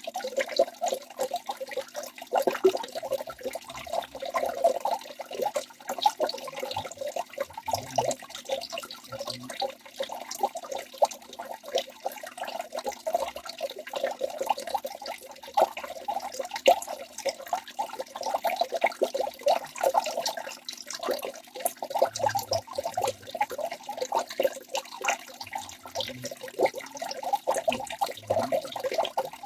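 Waterfall rushing, a steady dense splashing of falling water with no let-up.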